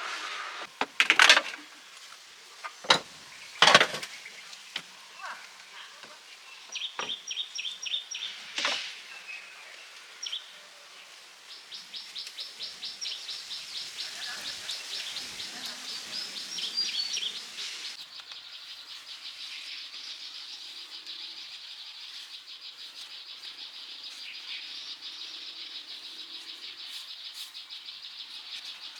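A few sharp knocks in the first few seconds, then a high, fast, pulsing chirring trill from wildlife that starts about twelve seconds in and keeps going steadily.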